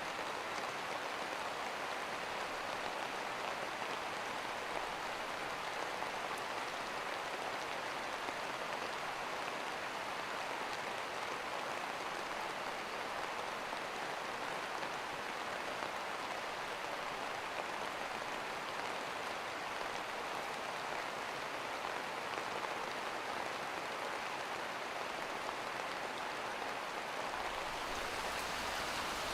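Steady rainfall, an even hiss of drops falling on a surface, growing a little louder with a low rumble joining in near the end.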